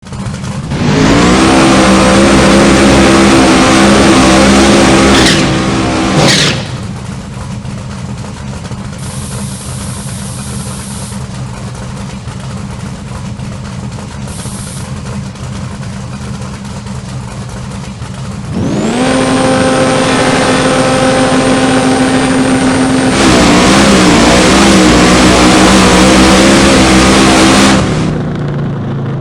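Supercharged big-block V8 of a 1990 Camaro drag car revving up and held at high revs for a few seconds, then dropping to a quieter steady run. It revs up and holds high again for about nine seconds before easing off near the end. A high supercharger whine climbs and holds with each rev-up.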